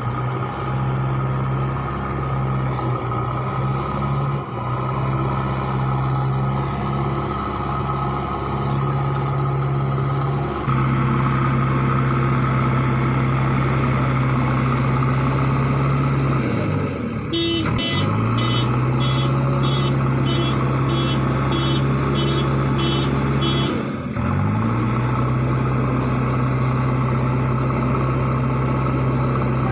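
Swaraj 855 tractor's diesel engine running hard at steady high revs. Twice, the revs dip sharply and climb back. Between the two dips a high beeping repeats about twice a second.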